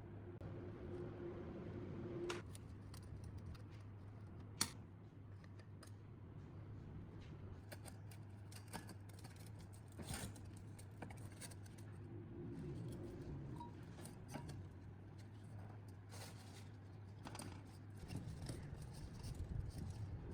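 Hand work on metal parts: scattered sharp clicks and taps with some light scraping, over a steady low hum.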